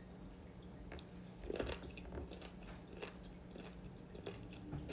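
A person chewing a mouthful of vegetables close to the microphone: faint, irregular soft crunches and wet mouth clicks, a little louder about a second and a half in.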